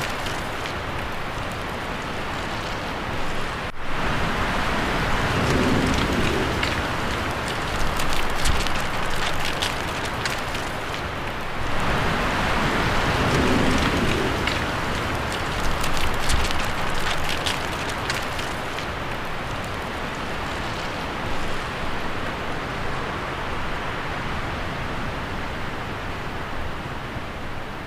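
Wind blowing through tree leaves, a steady rustle that swells and eases in gusts, with a very brief break about four seconds in.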